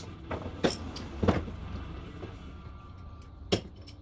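A handful of sharp knocks: four or five in the first second and a half, the loudest about 1.3 s in, and one more near the end, over a steady low hum.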